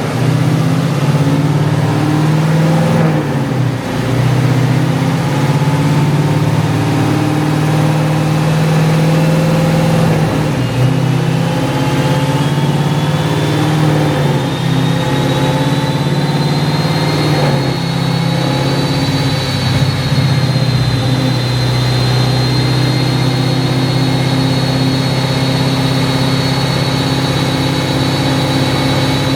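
Chevrolet Camaro SS's 6.2-litre V8 running steadily at a raised idle. A faint high whine climbs slowly in pitch from about ten seconds in, then holds.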